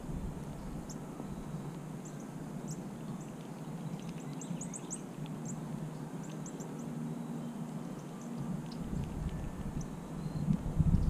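Small birds chirping in the background: scattered short, thin, high chips, several in quick succession around the middle. A low rumble on the microphone builds near the end.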